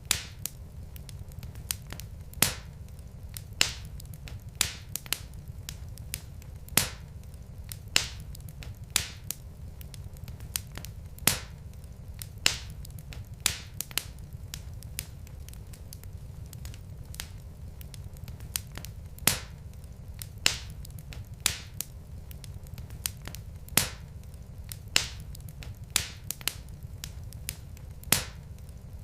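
Logs burning in a fireplace, crackling with sharp pops at irregular intervals, roughly one or two a second, over a steady low rumble.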